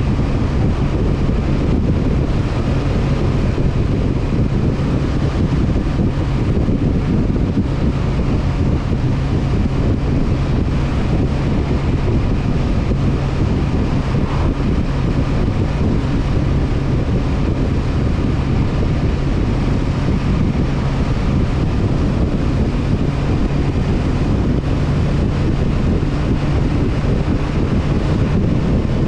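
Honda CB500F parallel-twin engine running at a steady cruising speed, partly buried under heavy wind rush on the action-camera microphone.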